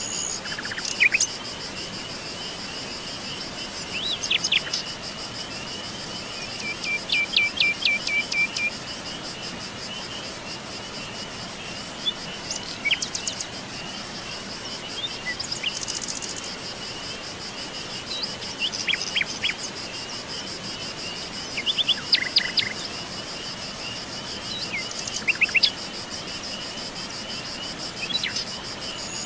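A steady, high-pitched, rapidly pulsing insect trill, like crickets, runs underneath. Birds break in with short bursts of chirps every few seconds, including a quick run of repeated notes.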